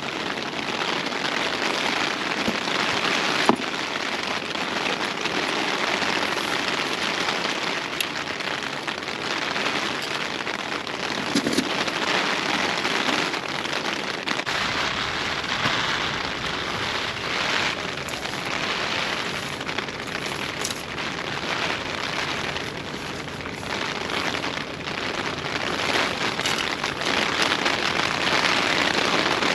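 Steady rain falling, an even hiss with a few sharp, louder drop impacts scattered through it.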